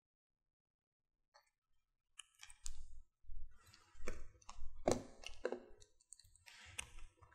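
Light, irregular clicks and taps of jewelry pliers working 20-gauge craft wire into a simple loop on a glass bead link, starting about two seconds in.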